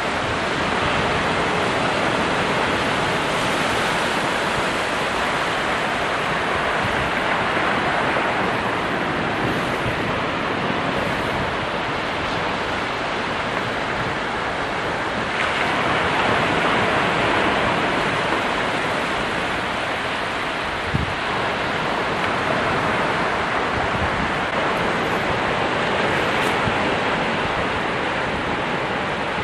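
Ocean surf: waves breaking and washing in as a continuous rush of noise. It swells slightly about a second in and again around the middle, with a brief faint knock about two-thirds of the way through.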